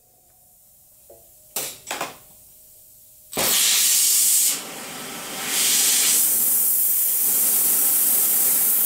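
Oxy-acetylene torch being lit: two short bursts of hiss, then it catches with a sudden pop a little over three seconds in and a loud, steady flame hiss follows. The hiss drops for about a second and comes back up as the gas valves are adjusted toward a neutral flame.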